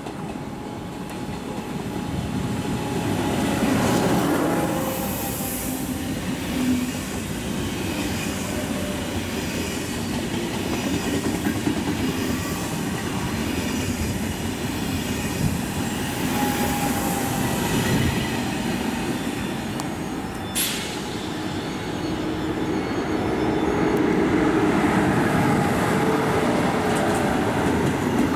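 A Thalys high-speed train (TGV set) running past on the platform track, a continuous rush of wheels on rails with faint steady tones over it. A sharp click comes about two-thirds through, after which a white ICE high-speed train runs past and the rolling grows louder toward the end.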